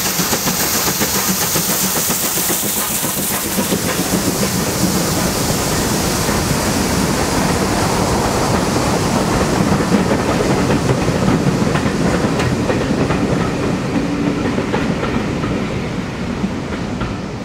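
A steam-hauled train climbing a bank and passing close by. A strong hiss fades over the first few seconds, then the coaches' wheels rumble over the rails, dying away near the end.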